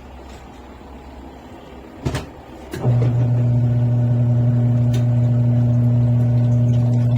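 Electric motor of a twin-tub washing machine humming steadily. It is stopped at first, two clicks come at about two seconds, and it starts up again at about three seconds, a run-and-pause pattern.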